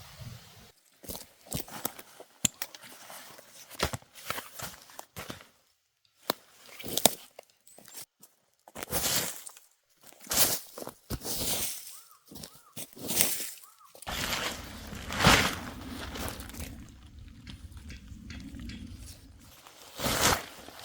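Irregular rustling, crunching and crinkling, broken by sharp knocks and clicks, as things are handled at close range. A low steady rumble runs under it during the second half.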